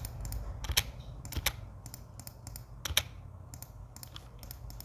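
Scattered clicks at a computer keyboard and mouse, about ten short sharp clicks at irregular spacing.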